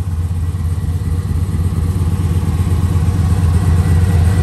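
Pontiac G8's supercharged LSA V8 idling, a steady low note that grows slightly louder toward the end.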